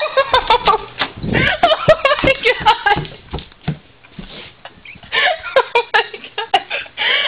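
A woman's frightened whimpers and gasps without words, mixed with knocks and rustling from her moving about, quieter for a couple of seconds in the middle.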